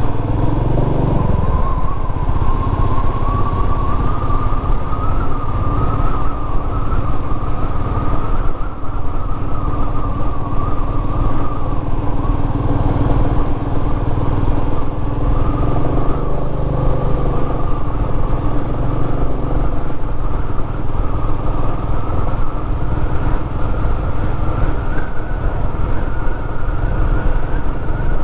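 Royal Enfield Meteor 350's single-cylinder engine running steadily under way, its pitch shifting slightly about a second in and then holding fairly even.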